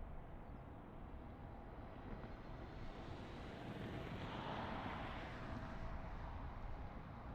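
Distant jet aircraft passing, its rushing engine noise swelling to a peak about halfway through and then easing off, over a low rumble of wind on the microphone.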